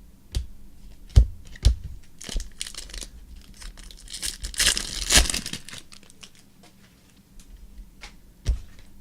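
Trading cards and their plastic packaging handled by hand: a few sharp taps, and in the middle two stretches of crinkling, tearing plastic.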